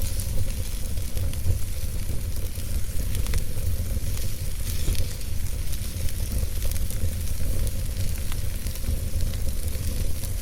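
Wood fire in a fireplace crackling and hissing, with scattered sharp pops over a steady low rumble.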